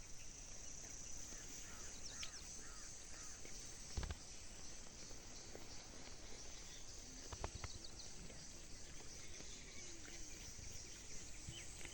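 Faint outdoor ambience: a steady high-pitched insect drone, with a short series of faint bird chirps near the start and a couple of soft knocks.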